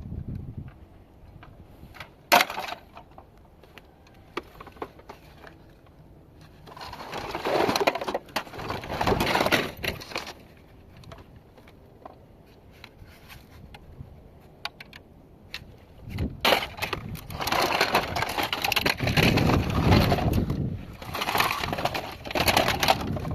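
Crunching and cracking of a small device being broken apart by hand, with a sharp single crack about two seconds in and two longer spells of grinding, splintering crunches later on.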